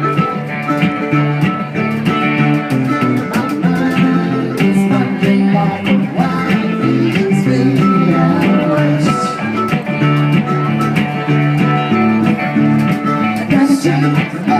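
Live acoustic band playing an instrumental passage: plucked guitar with mandolin, and hand percussion on congas keeping a steady beat.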